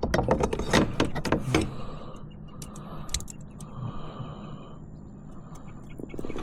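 A quick run of sharp knocks and clatter for about the first second and a half, then scattered clicks: handling on board a kayak as a caught redfish is set up to be measured.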